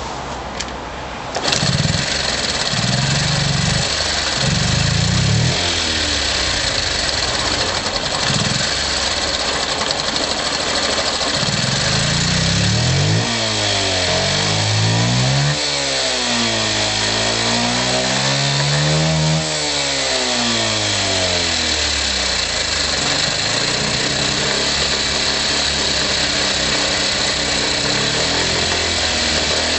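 Honda Press Cub 50 Fi's small single-cylinder four-stroke engine catching about a second and a half in, then idling. It is blipped a few times early on, revved up and back down between about 13 and 20 seconds, and settles to a steady idle.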